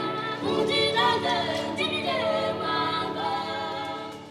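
A group of voices singing a cappella in choir style, with held, wavering notes that fade toward the end.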